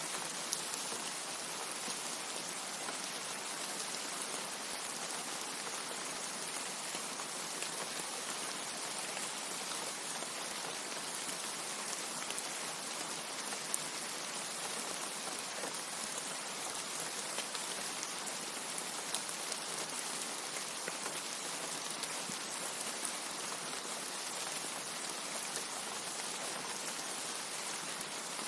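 Rain falling steadily, an even hiss with now and then a sharper tick of a single drop, the loudest about halfway through.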